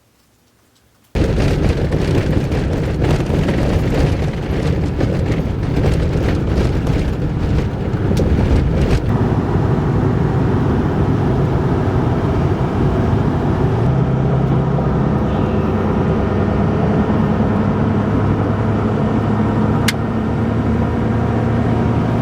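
Vehicle driving, a steady engine and road rumble heard inside the cab. It starts abruptly about a second in, with scattered clicks over the first several seconds.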